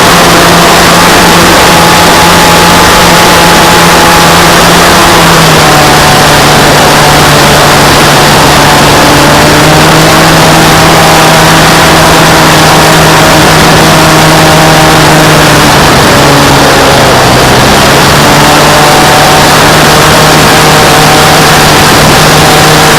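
An RC model airplane's motor and propeller, heard from a camera mounted on the plane, give a loud steady drone over heavy wind rush. The pitch dips slightly about five seconds in, rises again around ten seconds, and dips and recovers near the end as the throttle changes.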